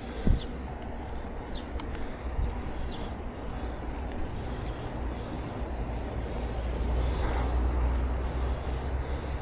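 Steady low rumble of wind and rolling bicycle tyres heard from a camera riding along on the bike, with one sharp thump just after the start and a few short high chirps in the first few seconds.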